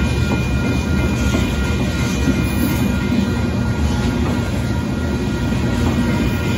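Freight cars of a Union Pacific gravel train rolling past a grade crossing: a steady, loud rumble of steel wheels on the rails.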